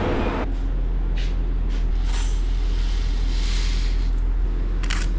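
Diesel truck engine idling steadily, with a few short clicks and knocks near the end.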